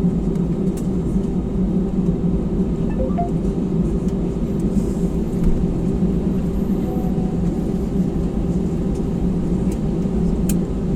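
Steady low rumble and hum of an Airbus A320 heard inside the cabin on the ground after landing, engines running, with a few faint clicks.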